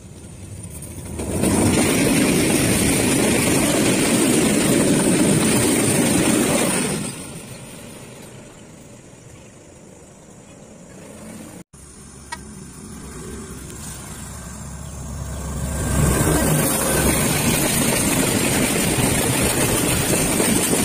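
Diesel trains passing on the track, engine and wheels on the rails. The sound is loud for several seconds, goes quieter, then grows loud again near the end as a container freight train rolls close by.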